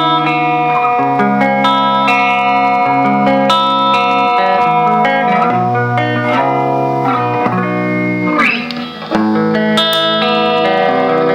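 Electric guitar played through an effects pedal, with sustained chords and single notes ringing over one another. Quick runs of notes sweep up and down in pitch around the middle, and the sound briefly drops away about nine seconds in before the playing comes back in.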